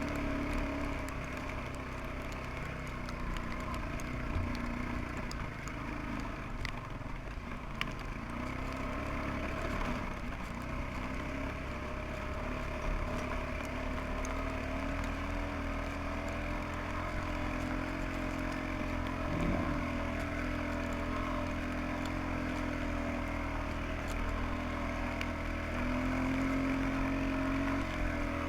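Suzuki QuadRunner 300 ATV engine running at steady, moderate revs while riding through deep snow, its pitch holding mostly even with small rises and dips.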